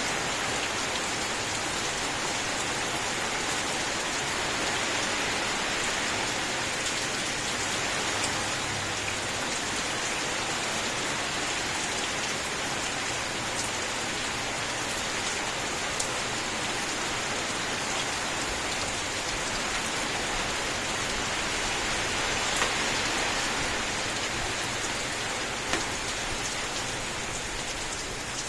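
Steady heavy rain falling on a surface, a dense even hiss with occasional sharper drop ticks.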